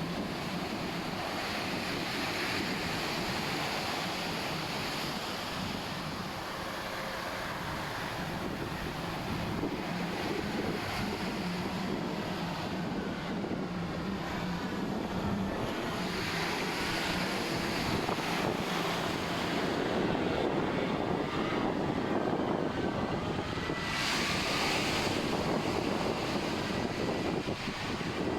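Ocean surf washing ashore with wind on the microphone, under a steady engine drone that fades out after about twenty seconds.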